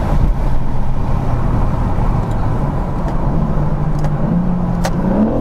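BMW M4 Competition's S58 twin-turbo straight-six cruising, under heavy wind noise on the microphone; the engine note rises near the end. Two short sharp clicks sound about four and five seconds in.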